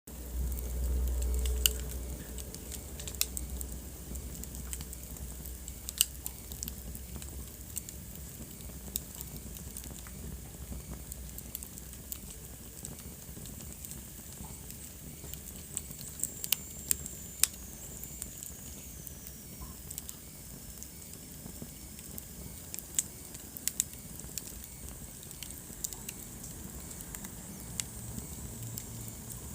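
Wood fire burning in a fireplace, crackling with sharp irregular pops over a low rumble of flame, the rumble strongest in the first two seconds. A faint high whistle falls slowly in pitch for a few seconds midway.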